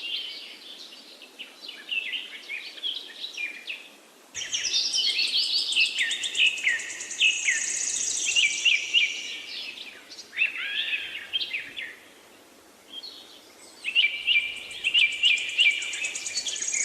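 Small birds chirping and calling in quick, sweeping notes, at times over a fast, high, pulsing trill. The sound changes abruptly about four seconds in and again near the end, as if from one clip to another.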